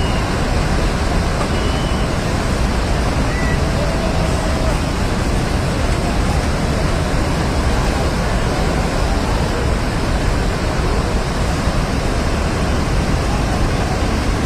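Rushing floodwater: a loud, steady roar that does not let up.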